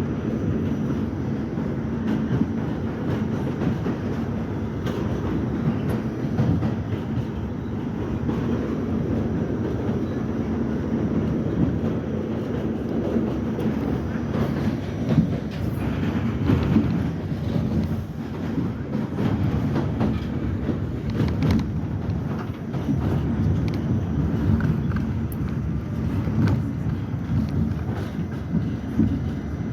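R68 subway train running along the track: a steady low rumble with scattered short clicks from the wheels and rails.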